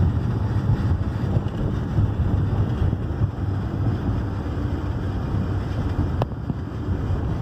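Road noise inside a moving van: a steady low rumble of engine and tyres, with one sharp click about six seconds in.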